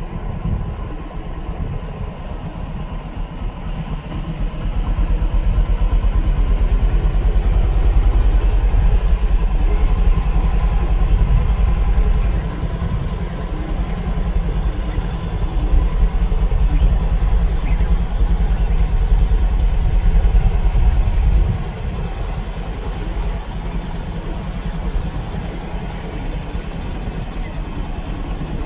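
An engine running steadily with a low rumble. It grows louder about five seconds in and drops back about twenty-one seconds in.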